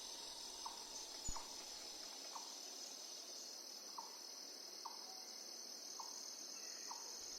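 Crickets chirping in a steady, faint high trill, with short, soft chirps around once a second over it.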